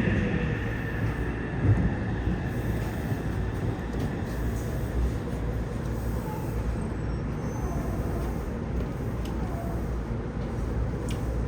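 Yokohama Municipal Subway 3000N train running, with a steady rumble of wheels on rail heard from inside the car. A faint high whine fades away over the first couple of seconds.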